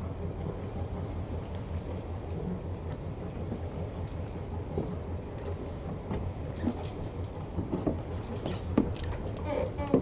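Albin 2D inboard boat engine running steadily with a low, rapid pulsing rumble. Irregular sharp clicks come more often in the second half.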